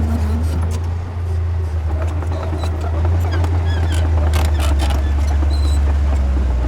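Heavy diesel engine of construction machinery running steadily, its low note shifting slightly partway through, with scattered metallic clanks.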